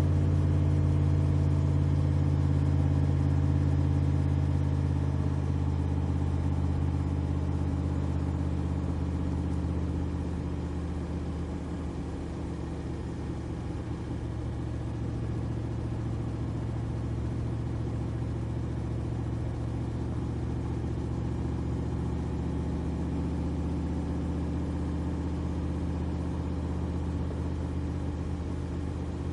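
Backdraft RT3 roadster's 427 cubic-inch V8 (VMS 427R crate engine) running at a steady cruise. The engine note is louder for the first several seconds, eases off, and then holds steady.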